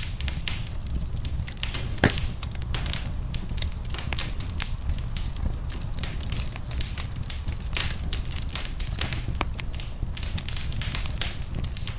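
Wood fire burning in a fireplace: irregular crackles and pops over a steady low rumble of flame, with a sharper pop about two seconds in.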